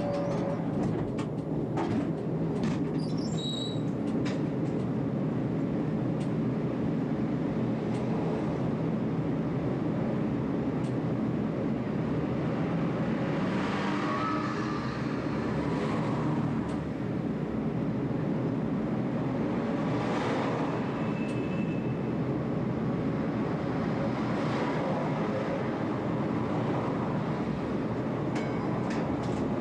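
Tram running on its track, heard from the driver's cab: a steady rumble of wheels and motors, with a few short clicks in the first couple of seconds.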